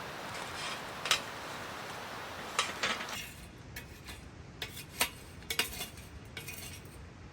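Light clinks and taps of tableware or camp cookware being handled, about a dozen short knocks in irregular groups. A steady hiss lies under the first three seconds and then drops away.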